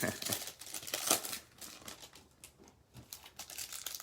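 Foil trading card pack wrappers crinkling and tearing as packs are ripped open, in quick irregular crackles that thin out about two seconds in before picking up again.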